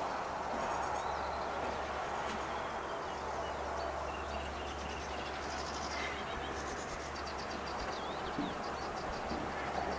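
Small birds chirping and trilling in many short high calls, over a steady low hum and a soft background rush.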